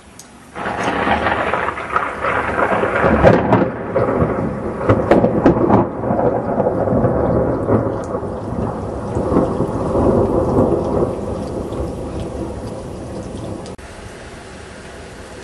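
Thunder rolling and rumbling for about thirteen seconds, starting about half a second in, loudest through the middle and fading before it cuts off abruptly near the end. Steady rain sounds underneath.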